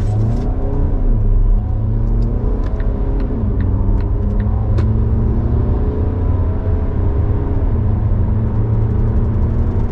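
Volvo XC60's 2.0 diesel engine accelerating hard from low speed in a 0–100 km/h run, heard from inside the cabin over road rumble. The engine note climbs, drops back and climbs again about three times as the gearbox shifts up.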